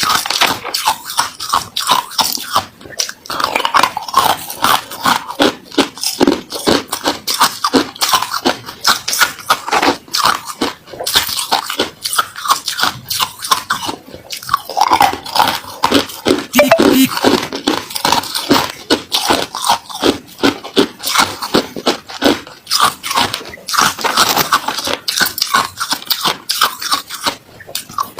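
Close-up biting and chewing of hard ice and freezer frost: a rapid, continuous run of loud, sharp crunches.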